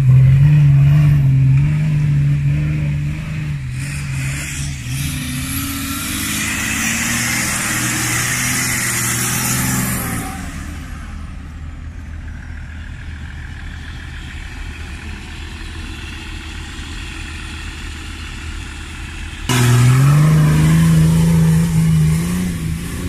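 Off-road 4x4's engine revving hard and held high for several seconds, falling away about halfway through to quieter running, then revving up again sharply near the end.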